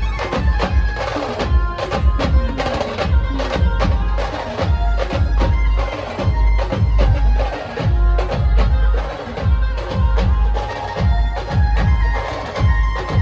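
Maharashtrian brass band music driven by sambal drums: fast, crisp stick strokes over heavy bass drum beats, with a steady, reedy melody line above.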